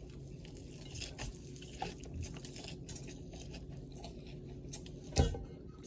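Faint crunchy chewing with small scattered clicks, with one louder knock about five seconds in.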